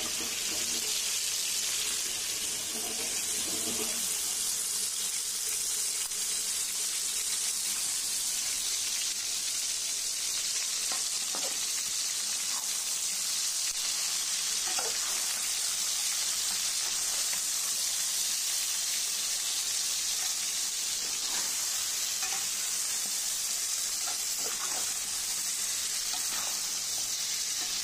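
Chicken pieces frying in a pan, a steady high sizzle, with a few faint scrapes of stirring now and then.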